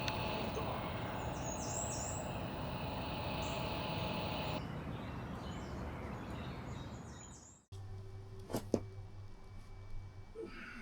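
Steady outdoor background noise with faint bird chirps. It fades and cuts off abruptly about three-quarters of the way in, leaving quieter ambience with a few light clicks and knocks.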